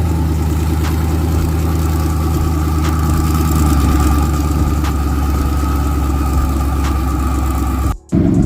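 A car engine idling steadily with a deep, even rumble. It cuts off abruptly near the end.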